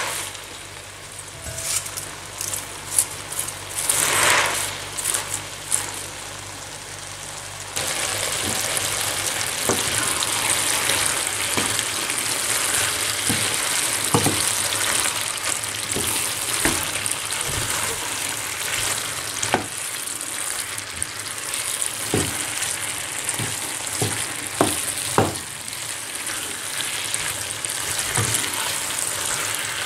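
Raw shredded cabbage rustles as it is pressed down into the pan by hand; about eight seconds in, a steady sizzle of cabbage and minced meat frying starts abruptly. A wooden spoon stirs the mix, knocking against the pan now and then.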